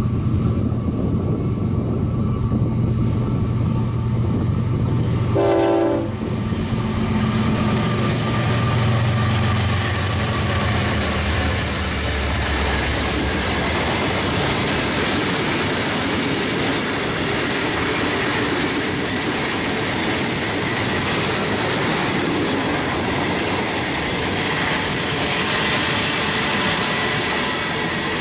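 Union Pacific diesel freight locomotives passing close by, their engine drone dropping in pitch as they go by about six seconds in. The steady rumble and clatter of freight cars rolling over the rails follows and continues.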